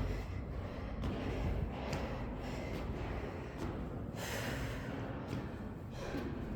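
Heavy, hard breathing with sniffs through a runny nose, a breath roughly every second, from a person out of breath from climbing stairs as a workout.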